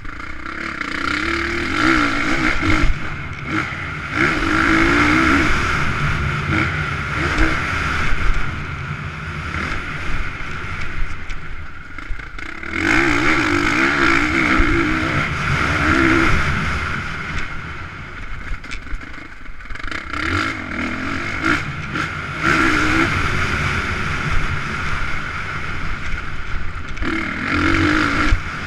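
Motocross motorcycle engines revving hard and easing off, the noise swelling and dropping every few seconds.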